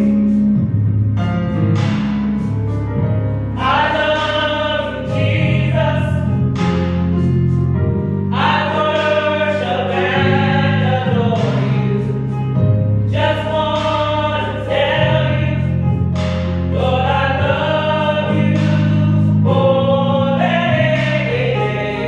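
Gospel choir singing over a band with sustained bass notes.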